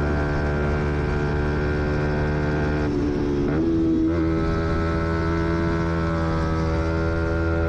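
Fantic XMF 125's single-cylinder four-stroke engine running steadily at high revs under way. About three seconds in, its sound briefly dips and comes back at a slightly different pitch, then holds steady.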